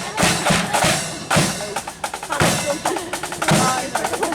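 Marching flute band's snare and bass drums beating a steady parade rhythm, with a few brief flute-like notes near the end.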